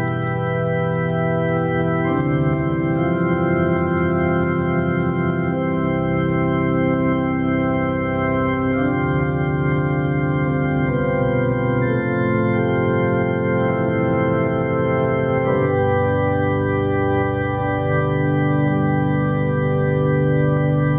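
Organ music: sustained chords held for several seconds at a time, shifting to a new chord a few times.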